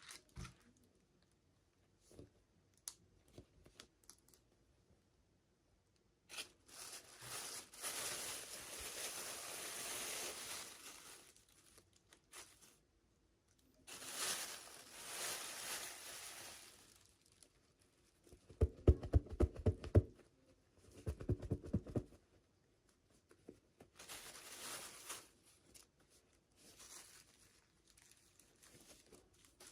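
Plastic or foil toy packaging being torn open and crinkled by hand, in several stretches a few seconds long. The loudest part is two short bursts of rapid, clicking ripping about two-thirds of the way through.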